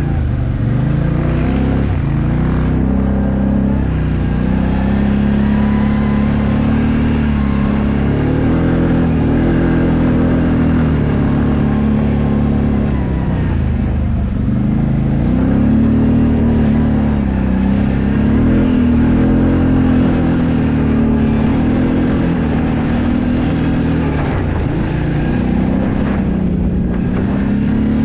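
Enduro motorcycle engine running under way, its revs rising and falling again and again as the rider opens and closes the throttle.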